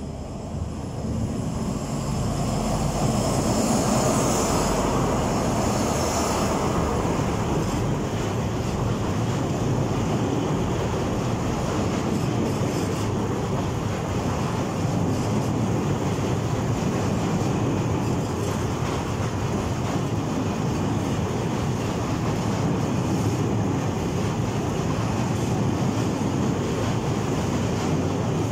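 Freight train passing on a railway bridge: the sound swells over the first couple of seconds as the head of the train comes by, then the wagons roll past in a steady, continuous rolling noise.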